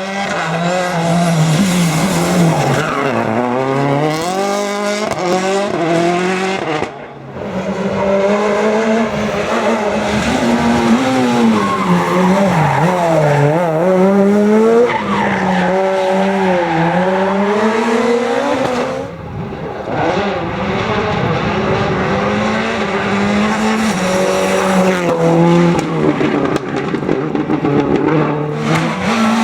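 Rally cars driven hard on a special stage: engines revving high and falling back through gear changes and lifts, with tyres skidding. The sound drops briefly twice, about 7 and 19 seconds in.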